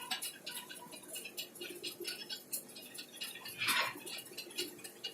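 Faint, irregular light clicks and clinks of small hard objects being handled, with a short scraping swish about three and a half seconds in.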